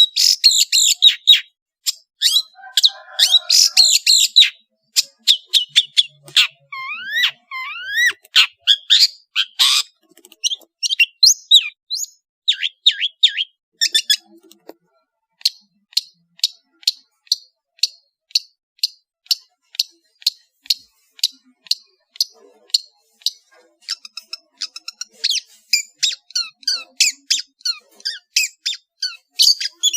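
Long-tailed shrike (cendet) singing a fast, varied song of sharp chirps and whistles, with rising whistled glides about a third of the way in. The song is a string of varied phrases of the kind a shrike mimics from other birds.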